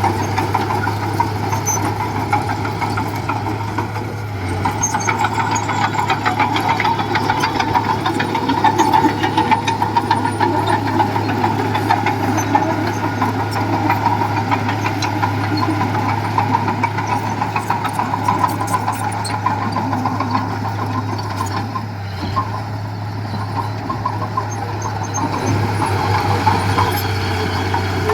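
Diesel engine of heavy earthmoving machinery running steadily, a constant low drone throughout.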